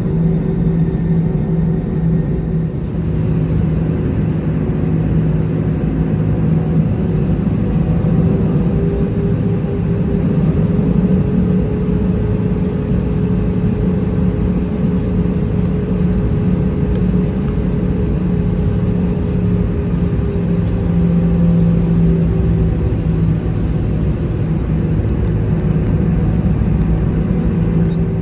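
Steady drone of an Airbus A320's CFM56 jet engines and airflow heard from inside the cabin, with a hum that rises a little in pitch about eight seconds in and eases back near twenty seconds. Faint light clicks run through it.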